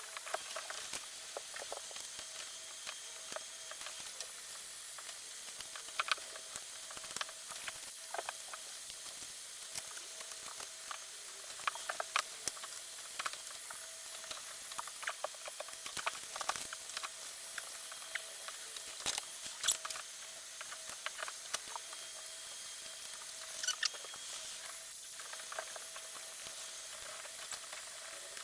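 Water spray hissing and pattering on air-conditioner parts as they are washed, with scattered small clicks and knocks throughout.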